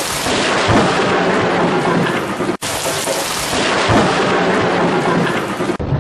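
Heavy rain pouring down in a thunderstorm, with thunder rumbling underneath. The sound breaks off for an instant about two and a half seconds in, and again near the end, after which it is duller.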